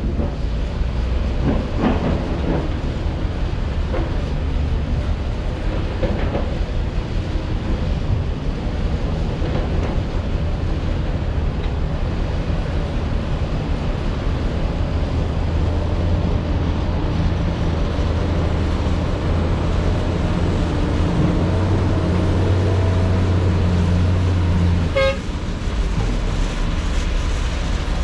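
Heavy diesel construction machinery running steadily with a deep engine drone, with a few sharp knocks in the first several seconds.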